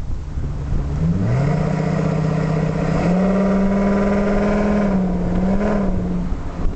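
Ford F-350's 6.8-litre Triton V10 engine revving: its pitch climbs about a second in, steps up again near three seconds and holds steady for about two seconds, then eases back near the end.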